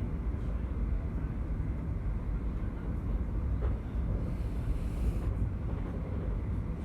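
Passenger train in motion, heard on board: a steady low rumble with no distinct knocks or changes.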